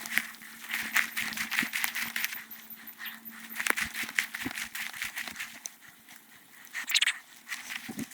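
Footsteps through fallen leaves and forest litter, a run of crackling steps that thins out over the last few seconds.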